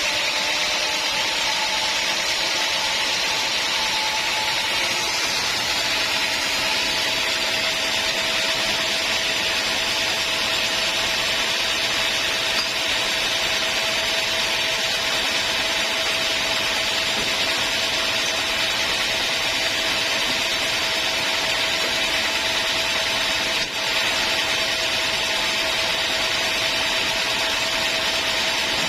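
Sawmill saw cutting steadily through an old teak log: an even hiss of the blade in the wood, with a thin whine that settles to one pitch about six seconds in.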